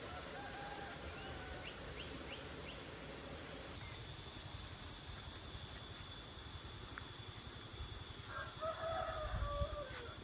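A rooster crowing once near the end, a call of about a second and a half that falls in pitch as it ends, over a steady high-pitched tone.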